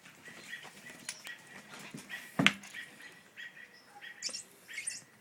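A small bird chirping over and over in short calls, about three a second, with a few higher squeaks near the end. A single sharp knock about halfway through is the loudest sound.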